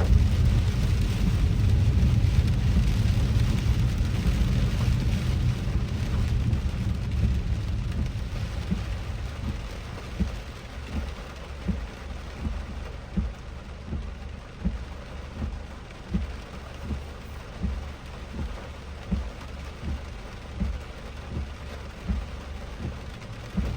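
Rain on a moving car, heard from inside the cabin, over a low road rumble that fades over the first ten seconds. After that a soft thump comes about once a second.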